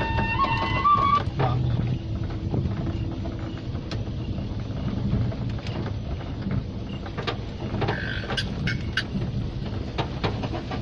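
Daihatsu Gran Max 1.5-litre engine running steadily as the vehicle moves, a low rumble with scattered light clicks and knocks; a last bit of music fades out in the first second.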